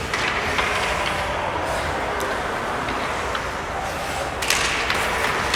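Ice hockey play in a rink: a steady wash of skates scraping on the ice, with sharp clicks of sticks and puck and a short louder scrape about four and a half seconds in.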